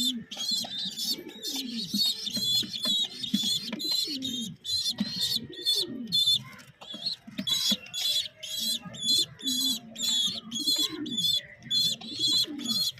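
Pigeon squabs about eleven days old squeaking for food: rapid, high, short begging squeaks, about three a second, with low cooing beneath.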